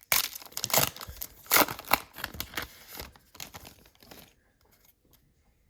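Trading card pack's foil wrapper being torn open and crinkled by hand: dense rustling for about three seconds that thins to a few small rustles and stops about four seconds in.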